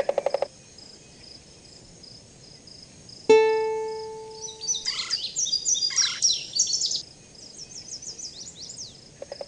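Birds chirping and trilling in short high bursts, with a single musical note about three seconds in that starts sharply and rings away over a second or so.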